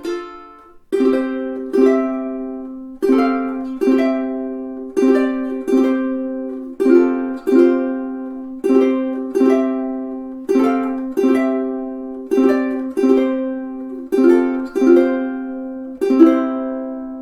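Lanikai FM-CET flamed-maple tenor ukulele played acoustically, strummed in slow chords. The first chord comes about a second in, and the strums follow every half-second to second. The last chord is left to ring out near the end.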